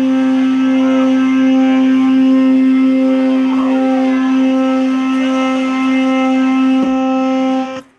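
Amplified electric guitar holding one steady droning note, loud and unchanging in pitch, which cuts off suddenly near the end.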